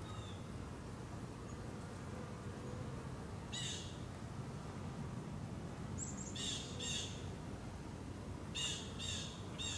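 A bird calling: a single short call about three and a half seconds in, then two quick runs of three short calls near the middle and near the end, over a steady low background rumble.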